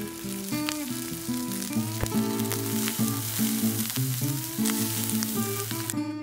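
Fried rice sizzling as it fries in a hot pan, with a few sharp clicks, over background music of changing notes; the sizzle stops shortly before the end.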